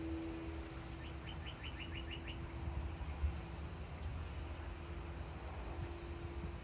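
A songbird calling: a quick run of about seven short falling notes about a second in, then a few brief high chips, over a steady low hum.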